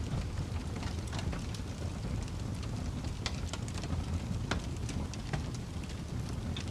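Wood fire burning in a fireplace: a steady low rush from the flames with irregular sharp crackles and pops of the burning wood.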